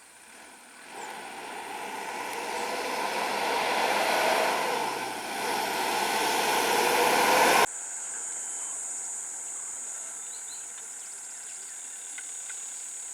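Vehicle engine and road noise swelling louder, then cut off abruptly about seven and a half seconds in. A quieter steady background follows, with a constant high-pitched whine.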